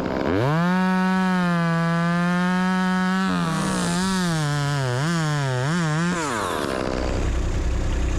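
Two-stroke chainsaw cutting a notch: the saw climbs to full revs and holds steady, then its pitch wavers up and down as it cuts. About six and a half seconds in it drops away, leaving a low engine note running at idle.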